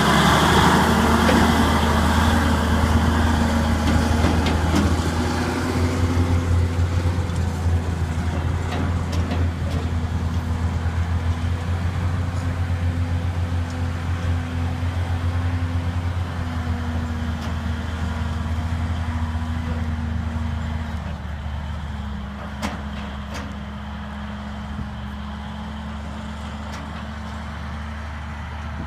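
Diesel engine of a 1971 AM General dump truck running with a steady hum, settling to a lower, quieter speed about 21 seconds in.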